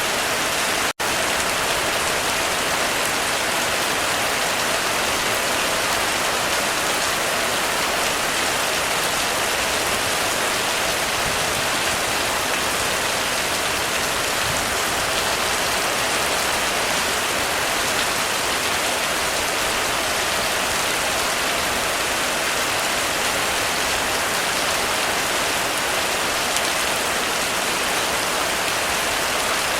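Heavy rain falling steadily on a roof, a dense even hiss. It cuts out for an instant about a second in, then carries on unchanged.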